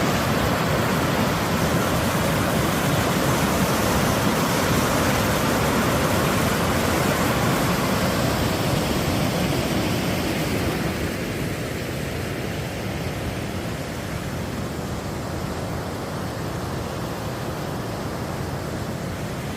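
Rushing water making a steady, even roar, which grows a little quieter and duller about ten seconds in.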